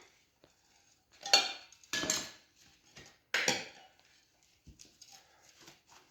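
Metal tire irons scraping and clinking against a dirt bike rim as the tire bead is levered on, in three loud strokes followed by quieter scrapes and clicks.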